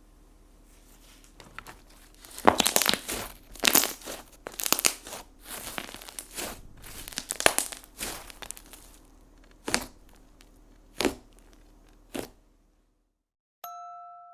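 Slime being squeezed and pulled in the hands, giving a run of crackling, tearing squelches from about two seconds in, then three separate pops. Near the end, after a short silence, a single ringing chime note sounds.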